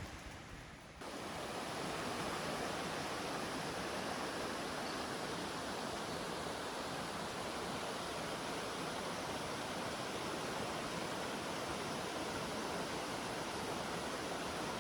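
Steady rushing of water, an even hiss that starts abruptly about a second in and holds level.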